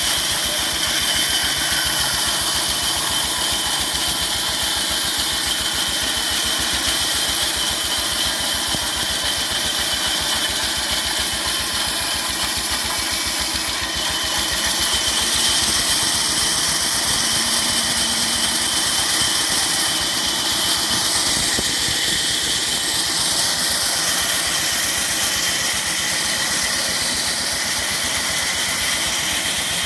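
Petter stationary diesel engine running steadily, its firing pulses even and rapid, with a steady high-pitched tone over the engine note.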